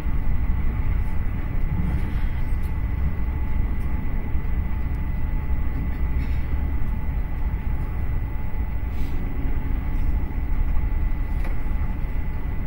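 Inside a moving passenger train carriage: the steady low rumble of the train running along the track, with a constant faint high whine over it and a few light clicks.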